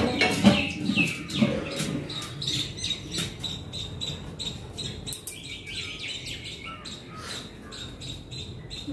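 Small birds chirping, with many short, high calls in quick succession.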